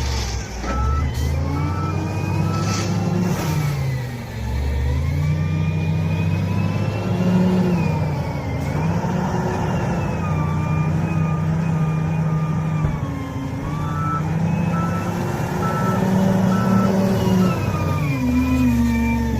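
SDLG wheel loader's diesel engine revving up and falling back again and again as it works. A reversing alarm beeps in short repeated pips near the start and again later.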